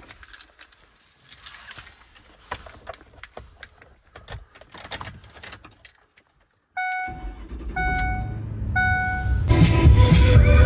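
Light clicking and jangling handling sounds, like keys. Then, about seven seconds in, a truck's steady low rumble starts with three short chime tones about a second apart, and background music comes in near the end.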